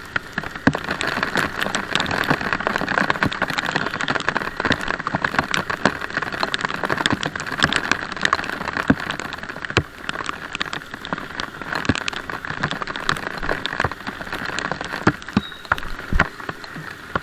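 Heavy rain: a steady hiss with many sharp drop ticks.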